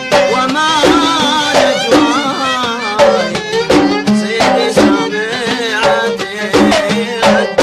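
Gulf sawt music: an ornamented violin melody over mirwas hand drums struck in a steady rhythm.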